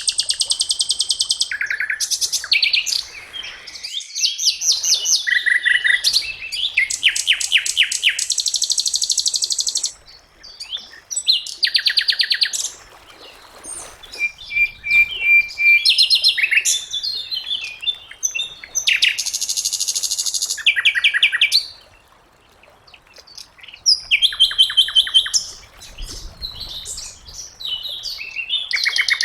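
Sikatan londo flycatcher singing: bursts of fast, rattling trills of repeated high notes, each lasting a second or two, with short pauses between them.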